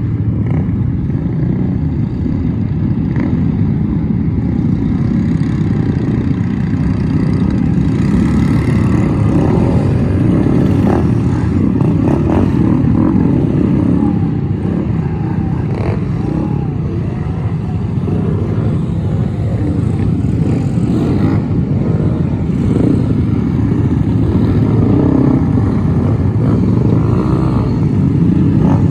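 Car engines running steadily with a loud, low exhaust sound.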